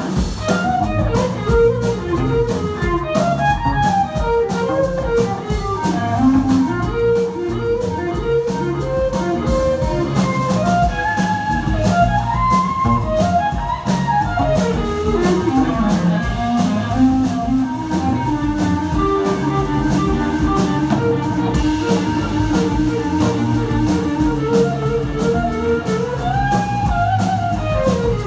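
A band playing live: guitar and drum kit keep a steady beat under an instrumental lead line that steps and slides up and down, with a long downward slide about halfway through.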